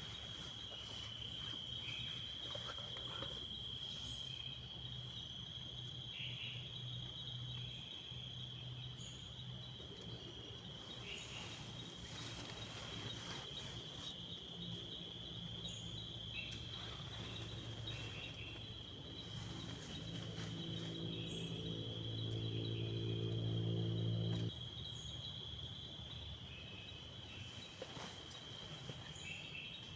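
An insect trilling steadily on one high, unbroken note. Under it, a low droning hum comes and goes, grows louder and cuts off suddenly about 24 seconds in, with scattered light clicks.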